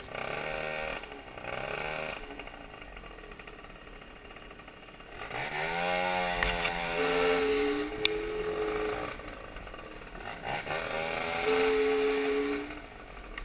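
Yamaha Aerox two-stroke scooter engine with a 70cc kit revving in bursts; twice, while the revs are held up, a steady high-pitched scream sets in over the engine note. The owner takes the scream, which comes with vibration, for worn or failing bearings.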